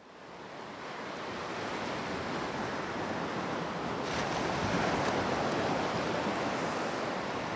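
Sea surf: waves washing in, fading up at the start and swelling to a peak about halfway through, with some wind.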